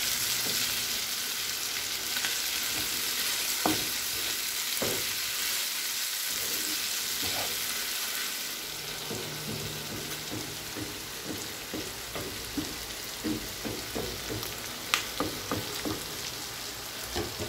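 Chicken pieces with chopped tomato and green chilli sizzling in oil in a granite-coated frying pan while a wooden spatula stirs them, scraping and knocking against the pan. The sizzle eases a little about halfway through, and the spatula taps come more often after that.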